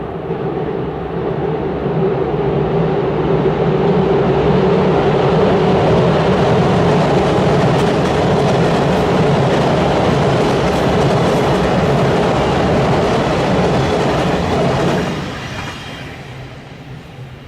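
Electric train crossing a railway bridge: a loud, steady rumble with a constant low hum. About fifteen seconds in it drops off suddenly and fades as the train passes.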